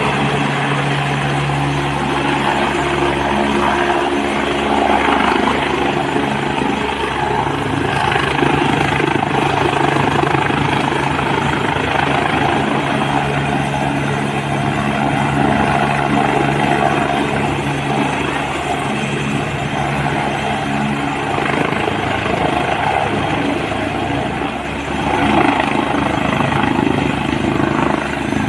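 Helicopter running steadily, its rotor beating fast and even over the engine sound.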